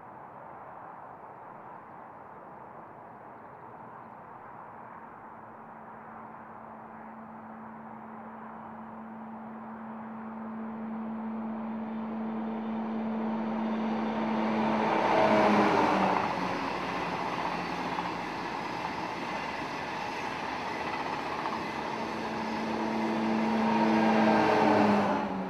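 Class 373 Eurostar high-speed electric train approaching and passing at speed. A rushing noise of wheels and air builds slowly under a steady hum. The hum drops in pitch as the train goes by, and the sound is loudest about two-thirds in and again just before it cuts off abruptly near the end.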